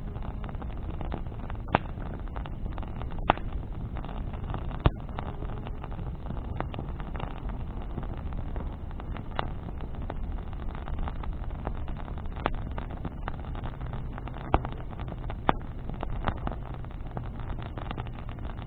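Bonfire of burning branches crackling, with a handful of sharp loud pops scattered through it over a steady low rumble.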